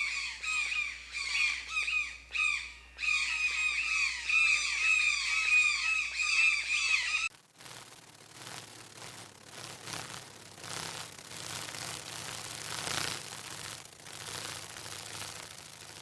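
Rapid, overlapping high-pitched squeaky animal calls, many a second, each dropping in pitch. About seven seconds in they cut off abruptly, giving way to a quieter steady rushing noise with no calls.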